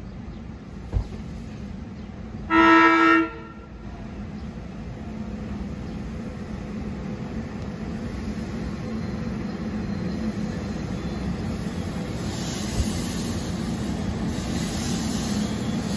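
SEPTA Silverliner IV electric train sounding its S-2M air horn in one short blast about three seconds in, then the train's running noise steadily building as it approaches.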